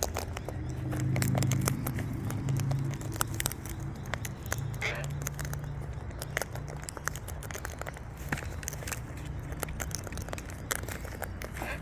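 Wild birds feeding on seed: many sharp, irregular clicks and crackles of beaks cracking and picking, over a low rumble that is loudest for the first few seconds.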